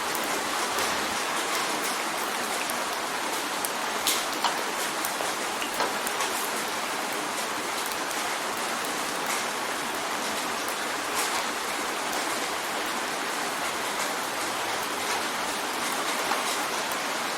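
Steady rain drumming on a window pane, a continuous hiss with scattered sharper drop strikes, the loudest about 4 and 11 seconds in.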